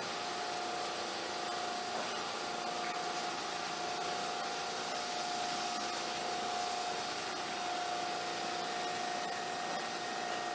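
Seibu 2000 series commuter train heard from inside a field-chopper car: a steady mechanical hum with one constant whining tone over even running noise.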